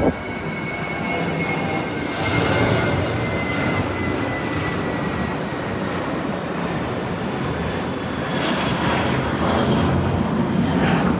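Steady engine rumble with a high whine that slowly falls in pitch over the first six seconds.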